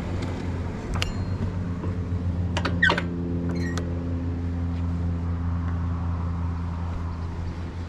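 A motor vehicle engine idling with a steady low hum. There are a few sharp clicks about a second in and again near three seconds, with a short falling squeak just before the three-second mark.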